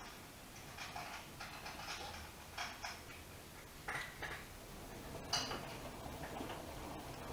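AEG Öko-Lavamat Lavalogic 1600 front-loading washing machine during its wash phase, with irregular light clicks and rattles from the turning drum and its load, and a sharper clack about five seconds in.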